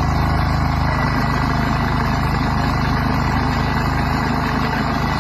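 An engine running steadily at an even speed, with a low, pulsing hum.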